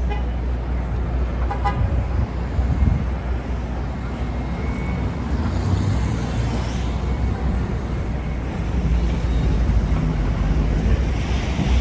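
Busy city street traffic noise, with a short car horn toot about a second and a half in. Heavy low wind rumble on the microphone.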